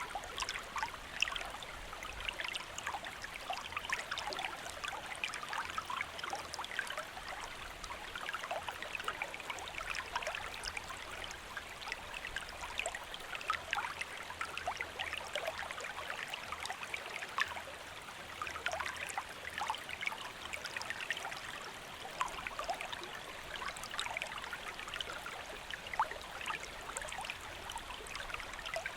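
A shallow stream or river flowing steadily, with constant bubbling and small splashes over stones.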